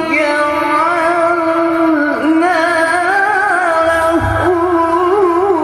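A male qari's voice in melodic Qur'an recitation (tilawah), drawing out one long ornamented note with quick wavering turns. The note dips briefly twice.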